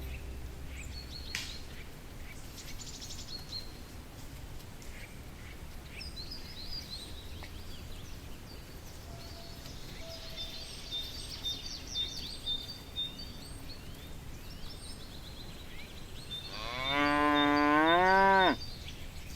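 A cow gives one long, loud moo near the end, its pitch rising and then dropping away before it cuts off. Before it there is only a faint outdoor background with scattered high chirps.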